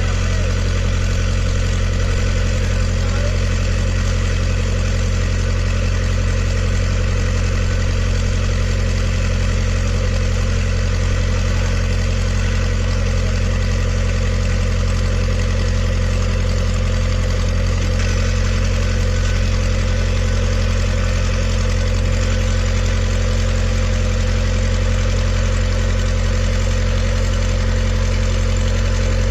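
An engine running steadily at one constant speed with a deep, even hum, with no revving or change throughout.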